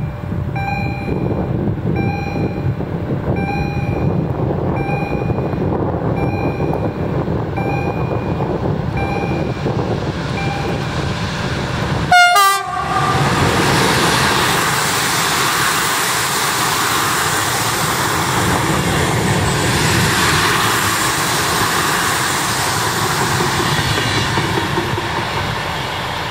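An electric passenger train hauled by a Newag EU160 locomotive approaches and passes close by: a regular electronic beep repeats a little more than once a second and fades out over the first ten seconds, a brief loud burst comes about twelve seconds in as the train arrives, and then the train rushes past with steady wheel and carriage noise.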